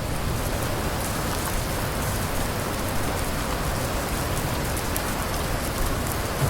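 Steady rain falling on a surface: an even, dense hiss with many small drop ticks.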